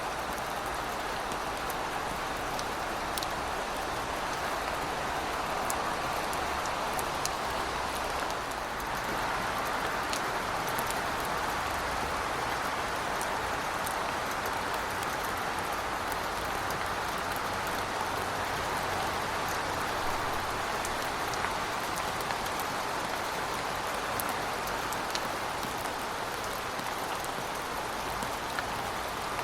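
Heavy rain falling steadily: a dense, even hiss with scattered sharp ticks of single drops landing close by.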